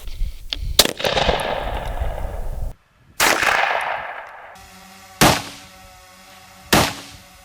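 Gunshots: a sharp crack about a second in and another about three seconds in, each followed by a long fading rush, then two further sharp cracks near the end. Faint music runs under the later shots.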